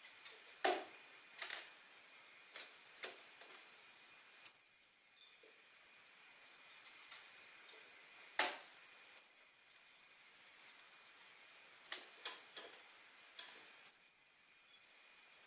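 Orange-headed thrush (anis merah) giving its thin, high 'ngecis' call: three sharp whistles that slide downward, each under a second long and about five seconds apart. This is the call used to draw in males. Beneath them runs a steady high buzz with scattered faint clicks.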